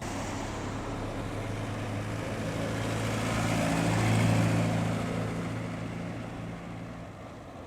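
A classic car driving past, its engine running at a steady pitch: the sound swells to its loudest about four seconds in, then fades as the car moves away.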